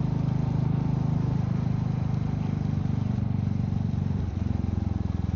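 Royal Enfield Meteor 350's single-cylinder engine running steadily as the motorcycle is ridden, its note changing slightly about four seconds in.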